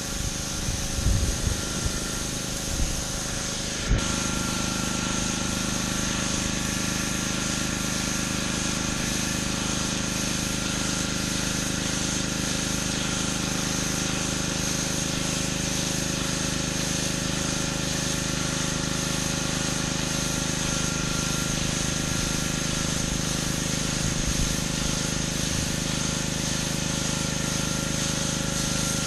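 Gas-engine pressure washer running, with high-pressure water spraying. About four seconds in the spray comes on, the engine settles under load, and a steady running sound with hiss carries on after that.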